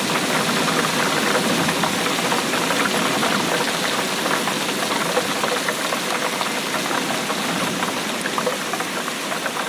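Steady rainfall: a dense, even patter of raindrops.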